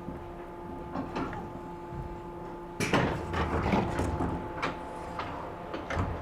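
Sliding passenger doors of a 113 series electric train working, with a sudden loud clatter and knocking about three seconds in, then a few lighter knocks. Under it runs the steady hum of the car's equipment, part of which stops as the doors move.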